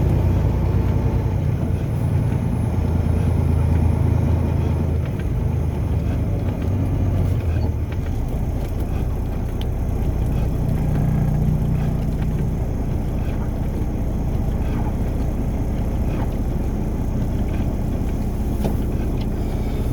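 Car driving along, a steady low rumble of engine and tyres on the road.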